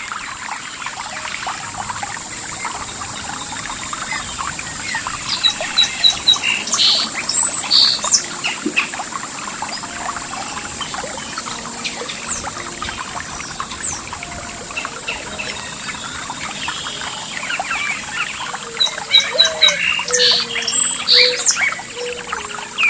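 Songbirds chirping over steadily trickling, running water, the bird calls coming in two bursts, a few seconds in and again near the end. A steady high-pitched hiss runs underneath.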